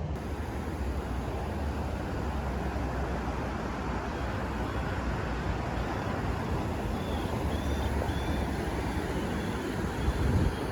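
Steady outdoor rumble and hiss of distant city traffic, with a few faint high chirps about seven to eight seconds in.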